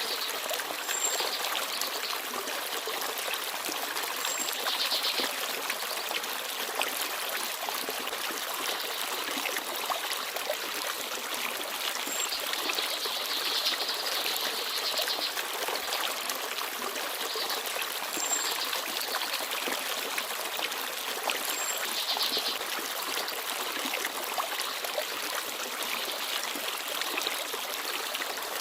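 Small forest stream babbling steadily over rocks. Short, high bird chirps come through every few seconds.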